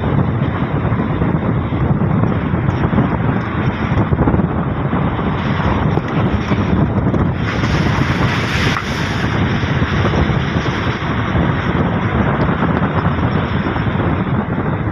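Steady loud rumble of wind buffeting the microphone together with the noise of a moving vehicle, with a brief hissier surge about halfway through.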